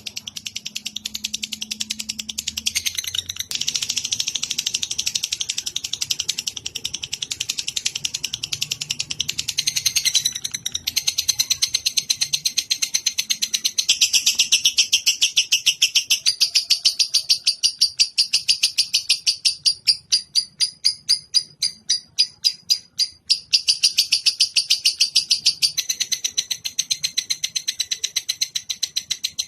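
Lovebird ngekek: a long, unbroken chattering trill of fast repeated high chirps that shifts pace every few seconds and slows into separate pulses for a stretch past the middle.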